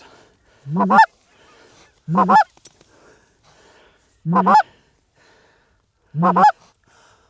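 Goose honking: four loud, evenly spaced two-note honks, each breaking from a low note up to a higher one, about one every two seconds.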